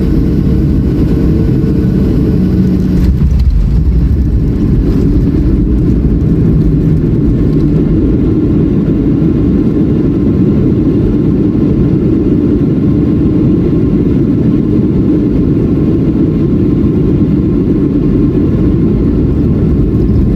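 Boeing 737 landing: a loud, steady low rumble of jet engine and rushing air.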